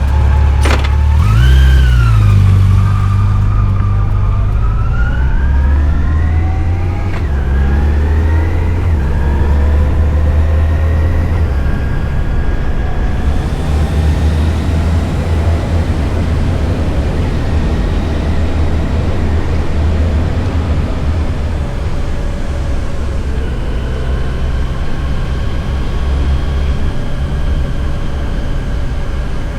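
Yamaha FJR1300 inline-four motorcycle engine pulling away, its pitch rising through the revs with a couple of drops at gear changes. It then runs steadily at cruising speed with wind rush.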